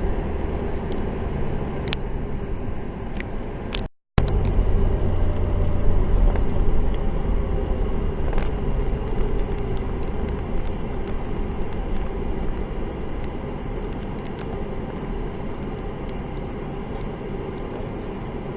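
Road and engine noise of a 4x4 driving on the highway, heard from inside the cabin: a steady low rumble that drops out for a moment about four seconds in.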